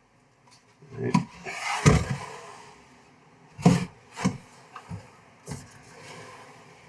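Wooden drawer boxes being slid into place on wooden rails: a brief sliding rub and a string of wood-on-wood knocks as they are pushed home.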